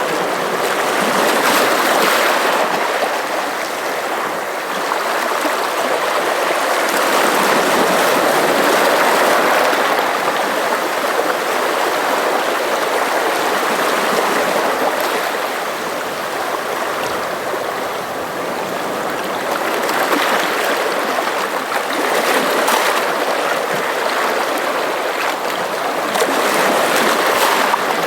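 Sea water washing and splashing against the shore, a continuous rushing that swells and eases every several seconds.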